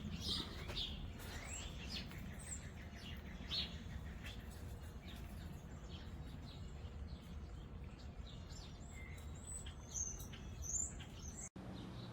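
Birds chirping outdoors: many short, scattered calls over a faint, steady low background noise. The sound cuts out for an instant near the end.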